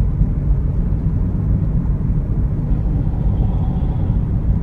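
Car driving on a road: a steady, loud low rumble of road and engine noise.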